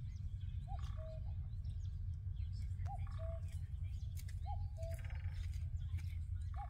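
A bird repeating a two-note call four times, about two seconds apart: a short rising note, then a slightly lower held note. A steady low rumble runs underneath.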